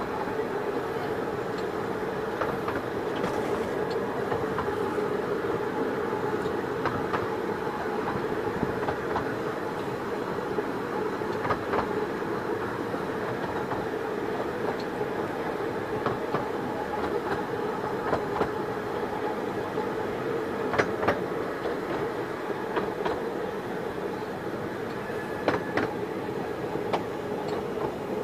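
Passenger carriages of a 15-inch gauge steam train running along the track, heard from on board: a steady rumble with occasional sharp clicks.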